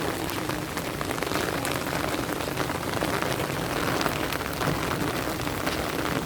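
Steady rain falling, with many individual drops striking close by as fine ticks over an even hiss.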